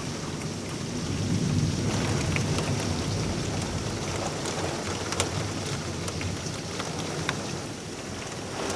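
Heavy hurricane rain pouring steadily, with a low rumble of thunder beneath it that swells a second or so in, and scattered sharp drops.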